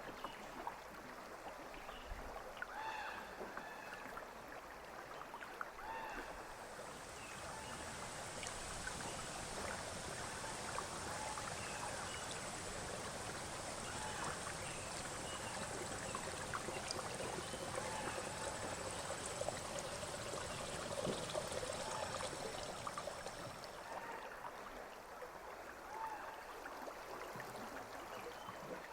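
River water flowing steadily. From about a quarter of the way in until near the end, a brighter hiss of moving water rises over it, then falls back.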